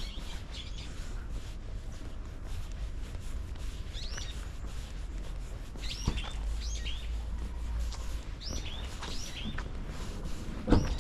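Birds chirping in short, downward-sliding calls, often two or three in quick succession, repeating every second or two over a steady low rumble.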